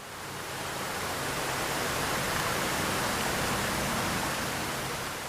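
A steady rushing noise, like running water or wind, that swells in and fades out smoothly.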